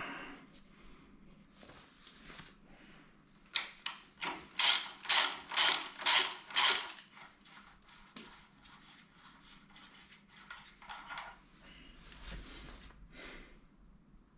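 Hand tools working on a stripped-down car engine: a run of seven quick, sharp metal strokes about two a second in the middle, with lighter clicks and knocks before and after.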